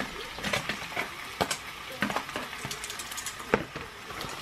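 Onions frying in oil in a saucepan, sizzling and crackling irregularly as raw chicken pieces are tipped in from a plastic pack, with a couple of sharper clicks.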